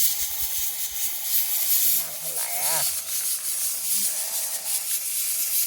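Steady hiss of falling rain. A brief wavering call rises and falls about two and a half seconds in, and a fainter one follows about four seconds in.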